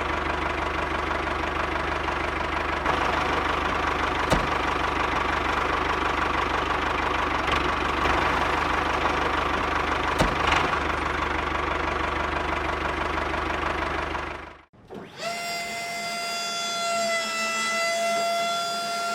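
Small engine running steadily, with a couple of sharp clicks, until it cuts off abruptly near the end. Then a steady siren-like tone with overtones.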